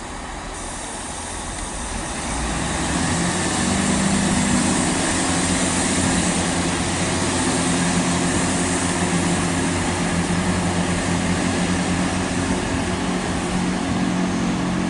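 Class 166 Networker Turbo diesel multiple unit's diesel engines running under power as it pulls out of the platform, a steady hum that grows louder about two seconds in.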